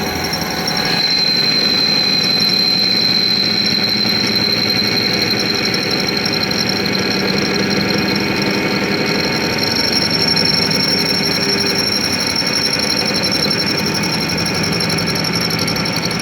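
Workshop machine tool running steadily: a continuous high-pitched whine over a fast, buzzing rattle, growing louder about a second in.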